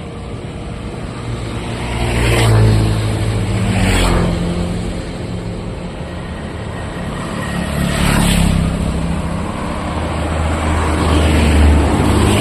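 Street traffic: motor vehicles passing close by one after another, about four passes, each engine swelling and fading over steady road noise.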